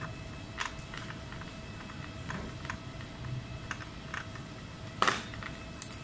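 Irregular small clicks and taps of hand tools and parts being handled at a laptop repair bench, over a steady faint hum. There is a louder clack about five seconds in.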